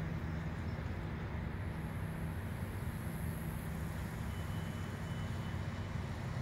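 Steady low engine hum, like a motor vehicle running at idle, with a faint high whine for a couple of seconds partway through.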